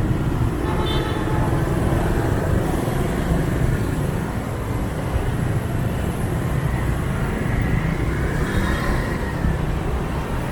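Motorbike ride through dense city traffic: a steady low engine rumble and road noise, with passing motorbikes and cars around it. Short high-pitched tones sound about a second in and again near the end.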